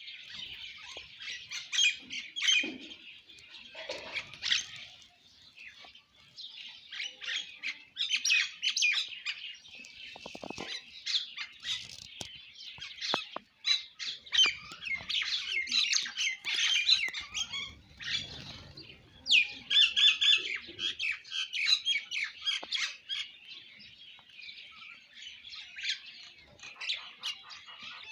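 Sparrows chirping, a busy stream of short overlapping chirps with only brief lulls.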